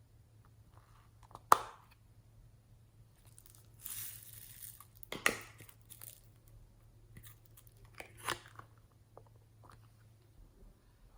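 Close-up handling noises while making slime: a sharp click about one and a half seconds in, a rustling crinkle around four seconds, then more clicks and taps near five and eight seconds.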